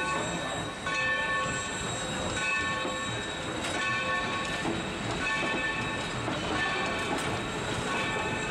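Passenger coaches rolling slowly past over the rails, with a bell ringing steadily about once a second.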